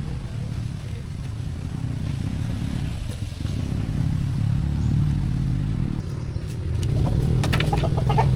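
Engine running with a low pulsing rumble that grows louder about halfway through, with sharp metallic clattering near the end.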